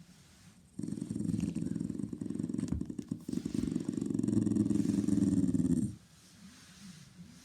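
A Shiba Inu rumbling low in its throat: a dense, rasping rumble that starts about a second in, runs for about five seconds with a brief dip midway, then stops.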